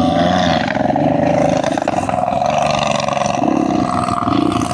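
Dirt bike engine idling steadily, a fast, even pulse with no revving.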